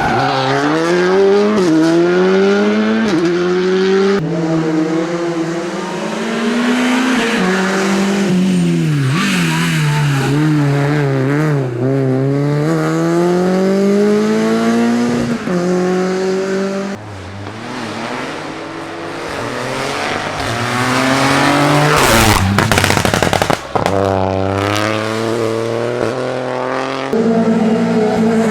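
Rally car engine revving hard on a mountain stage: the pitch climbs and falls, stepping sharply with each gear change, as the car brakes, downshifts and accelerates through the corners. About three-quarters of the way through there is a brief, harsh burst of noise, the loudest moment.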